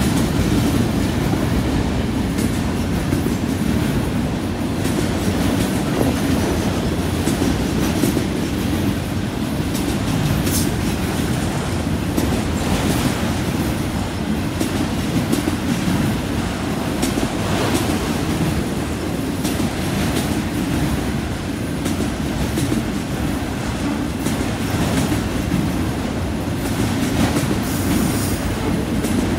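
Freight train of autorack cars rolling steadily past, its wheels rumbling and clacking over the rail joints.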